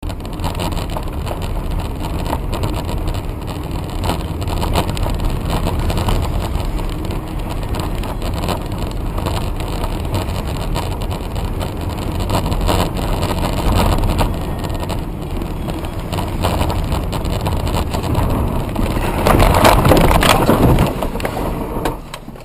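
Car being driven, as heard by a dash camera: a steady rumble of road and engine noise with many small knocks and rattles, swelling louder for a couple of seconds near the end before dropping away.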